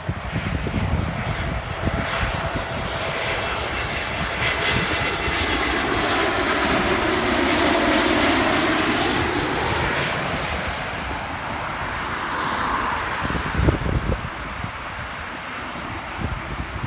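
Airbus A220's Pratt & Whitney geared turbofan engines approaching on landing. The jet noise swells to a peak about halfway through and then fades as the plane passes, with a whine that drops in pitch as it goes by.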